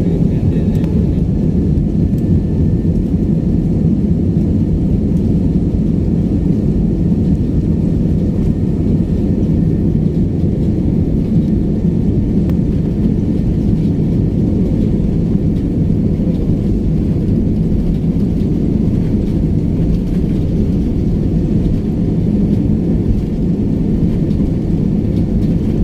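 Airliner jet engines at takeoff power, heard from inside the passenger cabin as a loud, steady, deep rumble.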